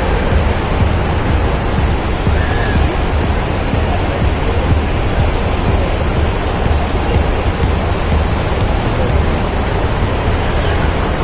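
Steady rush of falling water from the Dubai Water Canal's man-made bridge waterfall.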